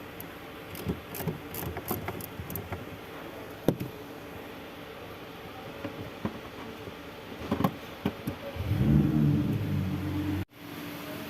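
Scattered metallic clicks and knocks of hand tools and parts during work on fitting a starter motor, then about two seconds of a louder pitched whirring near the end that stops abruptly.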